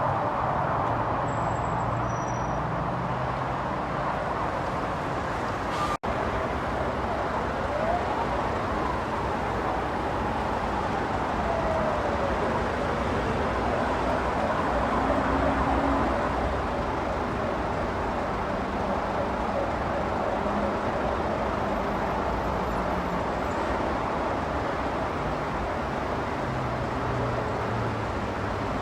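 Steady road and traffic noise from driving, with an emergency-vehicle siren fading away in the first few seconds and wailing faintly again after about eight seconds.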